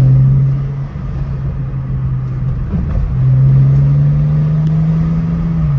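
A car's engine and exhaust pulling under steady throttle while driving, the pitch climbing slowly for a couple of seconds and then dropping away near the end as the throttle is lifted.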